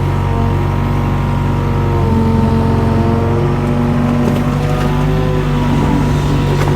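Mini excavator's diesel engine running steadily while the hydraulics work the arm. Its higher tones shift in pitch about two seconds in, with a few faint knocks.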